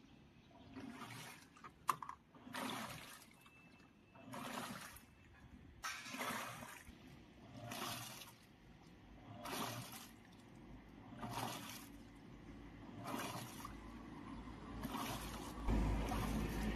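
Washing machine agitating its load at low water level, the repaired motor now turning the drum back and forth: water swishes in regular surges about every second and a half to two seconds, with a sharp click about two seconds in and a low rumble building near the end.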